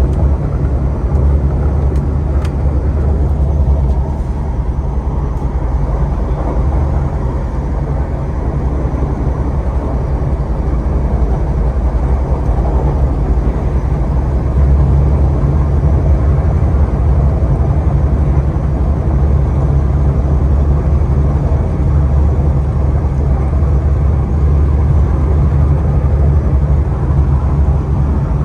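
MTR R-train electric multiple unit running at speed: a steady deep rumble of wheels on rail and traction equipment, with no breaks or changes.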